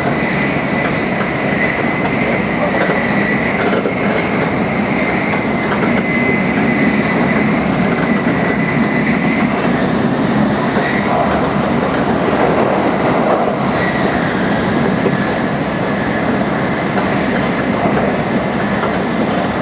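Tokaido Shinkansen Nozomi train running at high speed: a loud, steady rushing rumble with a thin, high whine held over it.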